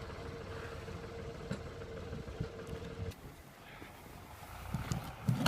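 Tractor engine running steadily, with a steady hum that cuts off about three seconds in, and a few soft knocks near the end.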